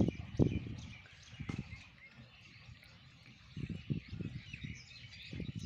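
Small birds chirping and twittering continually, with irregular low rumbles of wind or handling on the microphone near the start and again in the second half.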